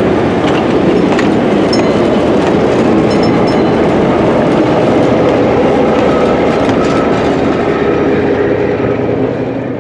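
Passenger train with a diesel locomotive at its rear passing close by, its wheels rolling over the rails with scattered clicks at the rail joints. The sound starts to fade near the end as the train moves away.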